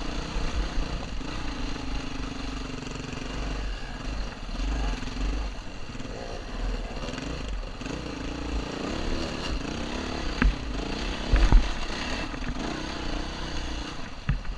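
Dirt bike engine heard from the rider's helmet, running at low, changing revs while picking over rocks, with two sharp knocks about a second apart near the end.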